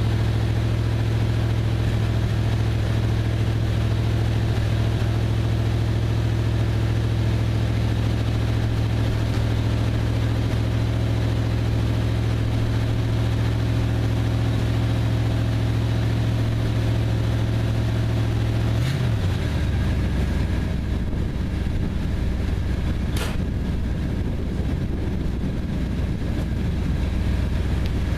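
1966 Chrysler 300's big-block V8 running at a steady fast idle while warming from a sub-freezing cold start. About two-thirds of the way through, the idle steps down to a lower, slower speed, with a faint click then and another a few seconds later.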